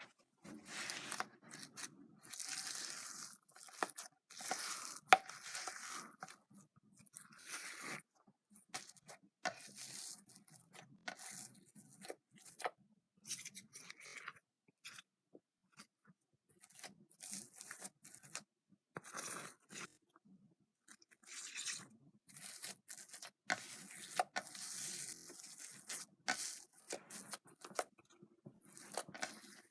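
Slime being squeezed and stretched by hand, giving irregular sticky crackling in short bursts with brief pauses between them.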